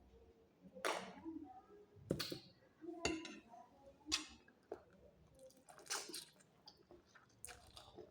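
Close-up eating sounds: someone chewing and smacking on a mouthful of roast chicken, with several sharp, irregular clicks and smacks.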